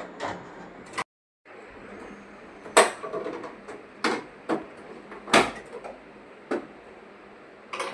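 A series of sharp knocks and clicks at irregular intervals, the loudest about three and five and a half seconds in, over a faint steady background noise; the sound cuts out completely for a moment about a second in.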